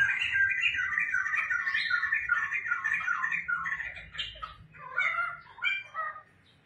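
Pet poksai (laughingthrush) singing: a long chattering run of repeated notes, about three a second, then a few separate calls before it stops about six seconds in.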